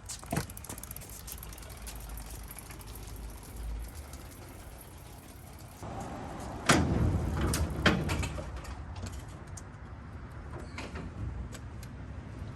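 Scattered knocks and clicks over a steady low rumble, with two louder thumps about seven and eight seconds in.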